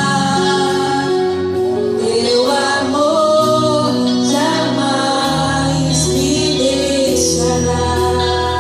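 Gospel worship song: a woman singing over a live band with drums and bass, with cymbal crashes recurring through it.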